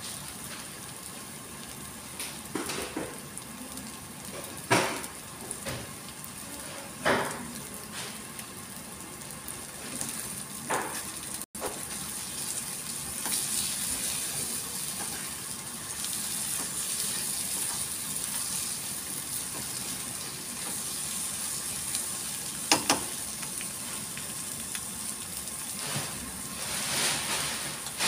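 Egg with onion, tomato and bell pepper sizzling in a nonstick frying pan over a gas flame. A silicone spatula stirs and scrapes the eggs, with a few sharp knocks against the pan. The sizzle grows steadier and a little louder about halfway through.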